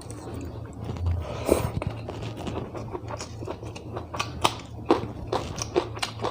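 A person chewing mouthfuls of rice and dal close to the microphone, with many quick wet mouth clicks and one louder, noisier mouth sound about a second and a half in. A steady low hum runs underneath.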